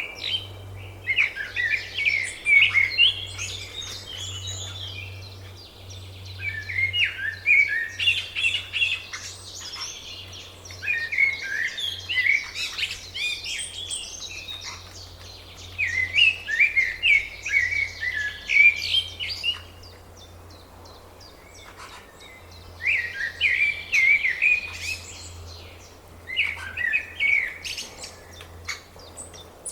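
A songbird sings repeated phrases of quick chirpy notes. Each phrase lasts two to three seconds, with short pauses between them, over a low steady hum.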